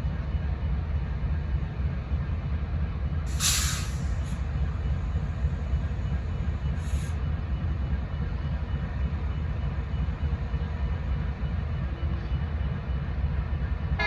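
A train rumbling steadily, with two short blasts of air hiss, typical of air brakes: a strong one about three and a half seconds in and a shorter one about seven seconds in.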